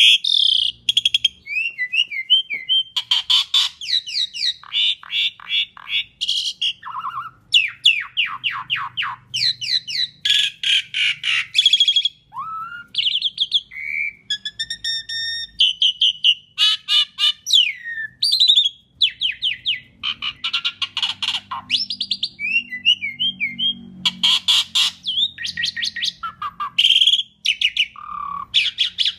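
Asian pied starling (jalak suren) singing a long, varied song without pause. It runs rapid rattling trills, whistled up- and down-glides and chattering notes one after another, with only short gaps between phrases.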